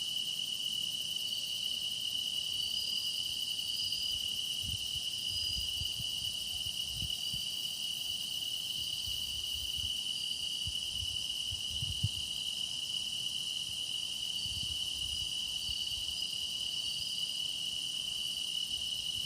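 Grass insects singing in chorus: a steady, unbroken high-pitched trill, with fainter higher calls coming and going over it. A single faint tick about twelve seconds in.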